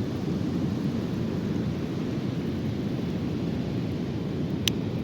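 Steady low rumbling roar of ocean surf mixed with wind on the microphone, with one sharp click near the end.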